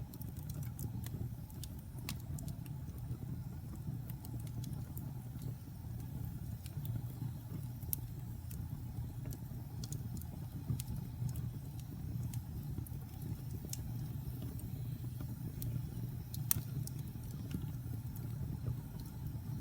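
Wood fire burning in a fireplace: a steady low rumble of the flames with scattered sharp crackles and pops throughout, one louder pop about 16 seconds in.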